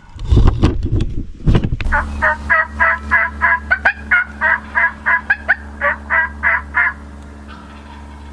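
A few low thumps, then a long run of turkey yelps: about eighteen evenly spaced notes, three or four a second, stopping near the end, over a steady low hum.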